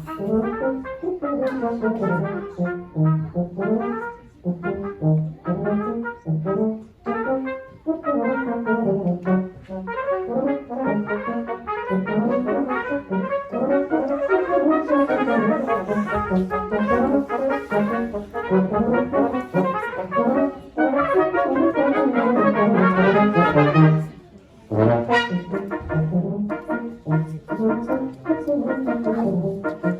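Brass quartet playing an instrumental passage, several lines moving together in steady rhythmic phrases, with a short break about 24 seconds in.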